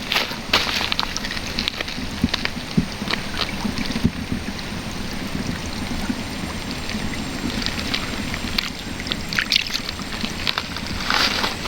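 Shallow river water flowing steadily, with scattered clicks and knocks throughout and a cluster of louder ones near the end.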